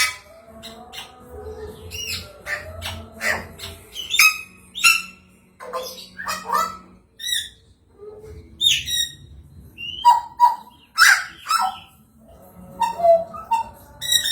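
Bird calls from a songbird-tutoring (masteran) recording: a varied string of short harsh squawks, chirps and whistled notes follow one another at an uneven pace, about one or two a second.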